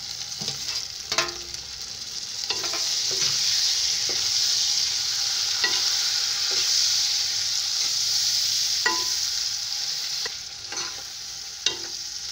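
Chopped tomatoes sizzling in hot oil with fried onions and spices in a kadai, with a steel spoon stirring and clicking against the pan. The sizzle swells about two seconds in and eases near the end.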